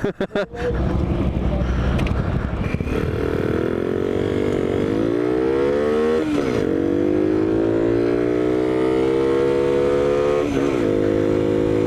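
Skyteam monkey bike's small single-cylinder engine pulling hard under acceleration. Its note rises steadily, drops sharply at a gear change about six seconds in, climbs again, and changes gear once more near the end.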